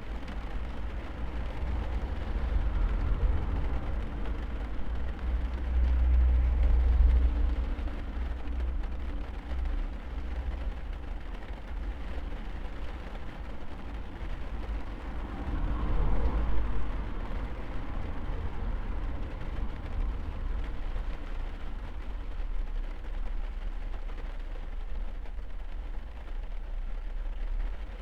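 Rain falling on a car, heard from inside the cabin as a steady hiss over a deep rumble, which swells louder twice, about six seconds in and again about sixteen seconds in.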